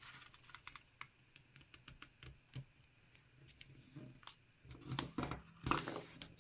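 A sheet of paper being folded over and creased by hand: faint scattered taps and rubs, then louder crinkling and pressing strokes near the end as the fold is pressed flat.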